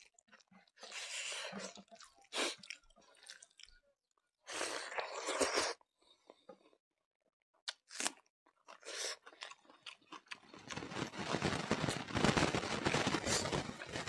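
Chewing and crunching of a mouthful of rice, smoked pork and raw shallot eaten by hand: a few short crunches and smacks in the first half, then steady, loud chewing from about ten seconds in.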